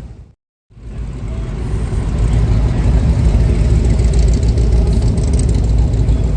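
A vehicle engine runs with a low rumble. The sound drops out briefly about half a second in, then comes back and grows louder.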